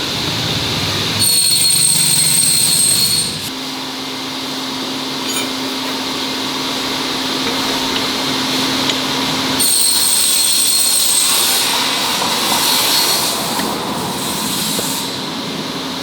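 A machine running steadily, with a high whine that comes in twice for about two seconds each, about a second in and again about ten seconds in.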